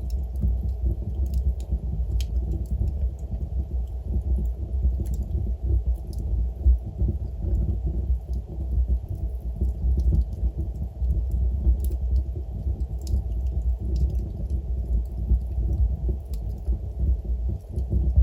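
Wood fire burning in a fireplace: a steady, low, fluctuating rumble from the flames, with faint, scattered crackles from the burning logs.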